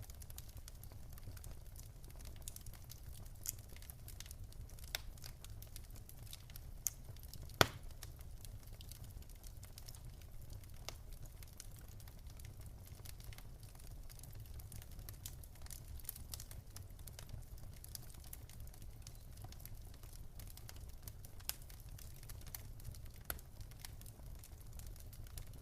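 Wood fire burning in a fireplace: a steady low rumble of the flames with irregular crackles and pops, one sharp pop louder than the rest about seven and a half seconds in.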